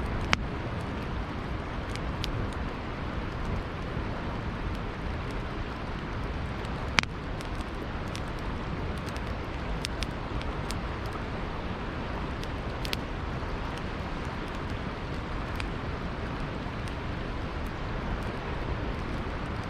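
Campfire crackling with scattered pops, a sharper one just after the start and another about seven seconds in, over the steady rush of flowing river water.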